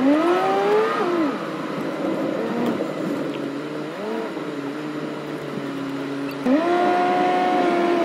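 Car engine heard from inside the cabin while driving, its pitch climbing and dropping sharply as it revs, then running lower and wavering before stepping up and holding a steady pitch near the end.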